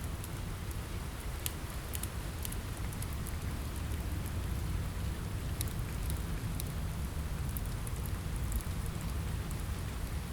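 Steady rain on a window with a low rumble, mixed with the scattered sharp crackles of a wood fire in a fireplace.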